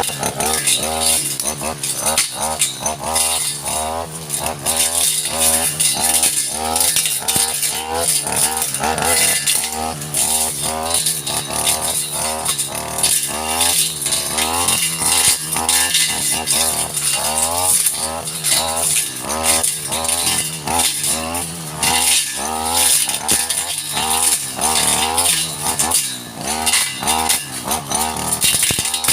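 Stihl two-stroke brush cutter running hard while clearing brush, its engine pitch dipping and recovering about twice a second as the blade bites into the vegetation.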